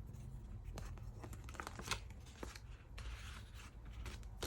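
Faint rustling and light taps of paper and plastic album contents being handled, with a longer rustle about three seconds in.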